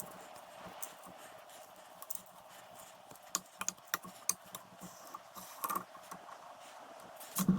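Hand tapping of 10 x 1.5 threads in drilled steel holes: a thread tap turned in a tap wrench, giving irregular light metallic clicks and ticks over a faint steady hum. A louder knock comes near the end.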